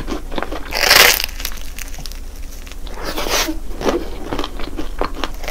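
Close-miked chewing of a crispy croffle coated in crunchy crumbs: a series of crunches and mouth clicks, the loudest crunch about a second in and another cluster around three to four seconds in.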